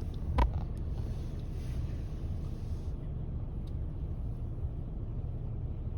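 Steady low rumble of a car driving on snowy roads, heard from inside the cabin, with one sharp knock about half a second in.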